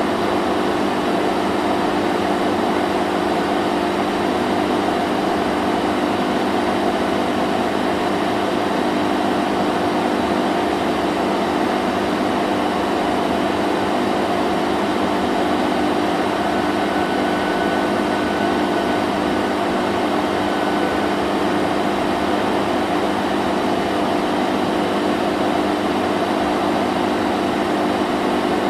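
Vacuum cleaner running steadily: a constant motor hum over an even rush of air, unchanging throughout.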